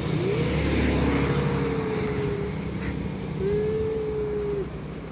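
A cat meowing twice in long, drawn-out calls, the first rising then slowly falling over about two seconds, the second shorter, over the steady low hum of a running engine.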